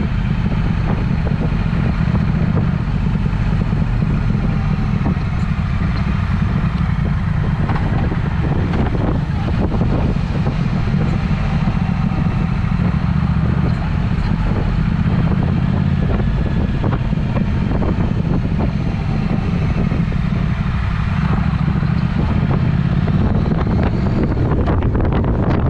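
Triumph Speed Twin's 1200 cc parallel-twin engine running through a Vance & Hines aftermarket exhaust while riding along at a steady pace.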